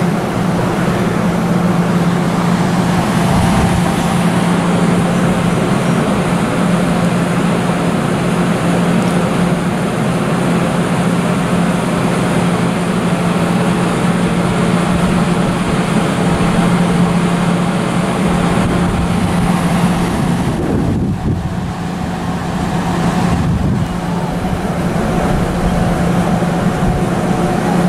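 Train at a station platform: a loud, steady running noise with a constant low hum, dipping briefly about 21 seconds in.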